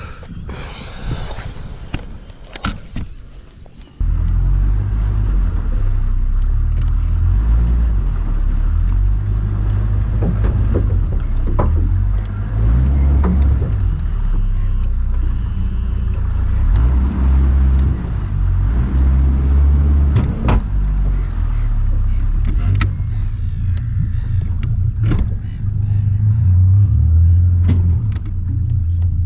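A boat under way: a loud, steady low rumble of motor and wind noise that starts abruptly about four seconds in. Before it, a quieter stretch with a few sharp clicks.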